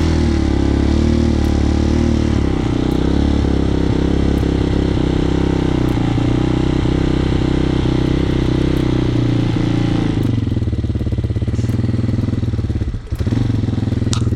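Hawk 250 dirt bike's single-cylinder four-stroke engine running at a fast idle on half choke, having just caught on the electric starter. About ten seconds in the revs drop to a lower, steady idle, with a brief dip in the sound just before the end.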